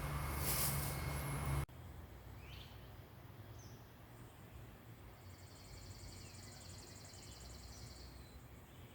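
Low rumbling outdoor background noise that cuts off abruptly after about two seconds, then quiet ambience with a few short bird chirps and a high, fast-pulsing trill lasting about three seconds.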